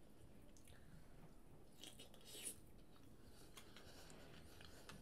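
Faint chewing of a mouthful of seafood, with a few short mouth noises about two seconds in.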